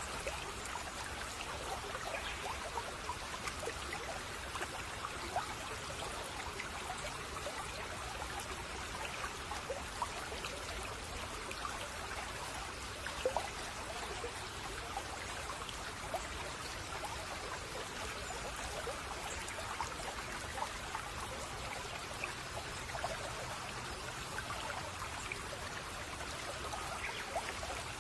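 A shallow babbling brook, water trickling and splashing steadily over stones with many small bubbling plinks.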